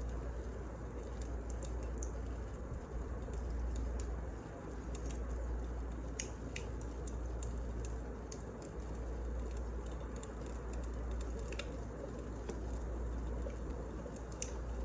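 Wood fire burning: a steady low rumble and hiss with irregular sharp crackles and pops.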